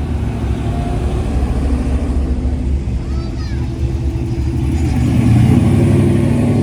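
Classic car engines running as cars drive past at low speed, a deep, steady rumble; about five seconds in, a louder car pulls past, its engine rising in level.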